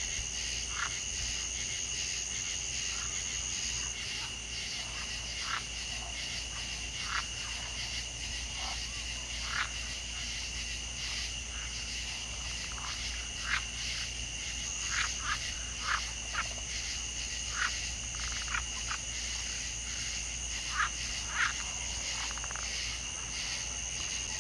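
Frogs giving short, irregular calls, more often in the second half, over a steady high-pitched insect chorus. The highest part of the chorus fades out about four seconds in and returns about halfway through.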